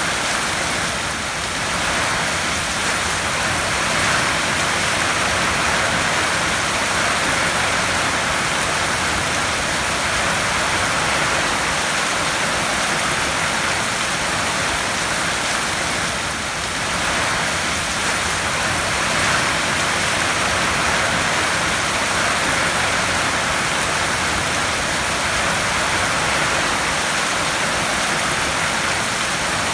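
Heavy rain falling on a tin roof, a steady, dense hiss with no single drops standing out.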